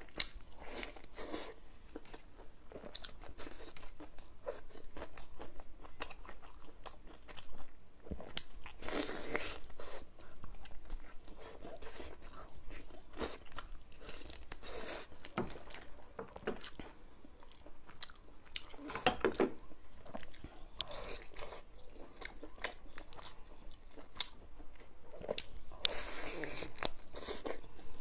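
Close-up chewing and biting of braised meat on the bone: irregular wet clicks, smacks and tearing. There are louder bites about nine seconds in, around nineteen seconds and near the end.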